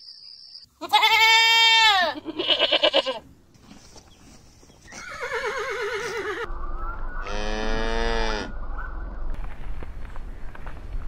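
Goats bleating: four calls, the first loud and falling in pitch, the next three quavering.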